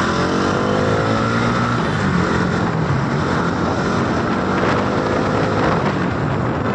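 Motorcycle engine running under way, its note rising and falling as the throttle changes, over a steady rush of wind and road noise.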